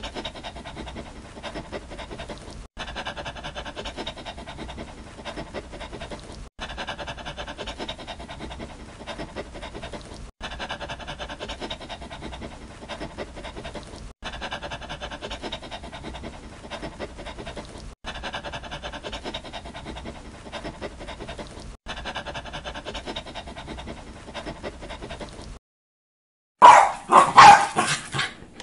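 Dog sounds repeated in a loop, the same short stretch restarting about every four seconds. Near the end, after a second's gap, a dog makes much louder sounds while tugging on a leash.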